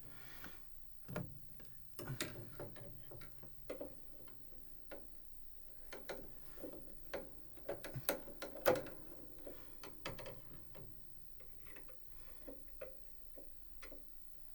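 Irregular small clicks and light knocks of a screwdriver turning the screws that hold a spinet piano's action, with metal and wood parts being handled.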